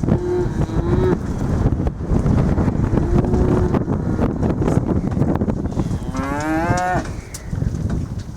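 Cattle mooing: a call in the first second, a fainter one around three seconds in, and a longer call near the end that rises in pitch. A steady rough rush of wind noise on the microphone runs under the calls.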